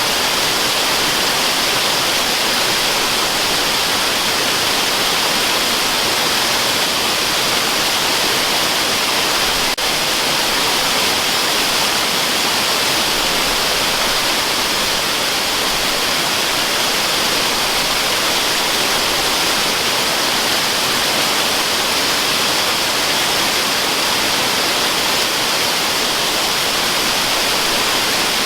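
Steady rushing of a waterfall, a bright hiss-like noise with little bass that never changes, with one faint click about ten seconds in.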